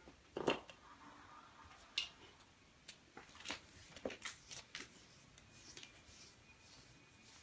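Kittens playing: faint, irregular light taps, clicks and short rustles of small paws and bodies scrabbling about, the loudest two about half a second and two seconds in.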